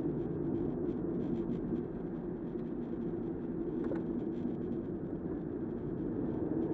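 Steady car cabin road noise from a car driving in the rain, with faint, irregular light ticks.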